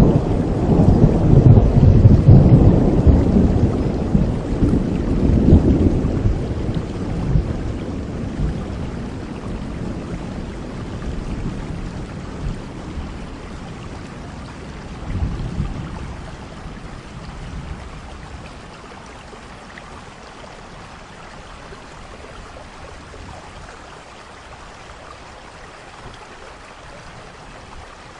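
A long roll of thunder, loudest at the start, rumbling and fading away over the first several seconds, with a smaller rumble about halfway through. Steady rain keeps falling underneath throughout.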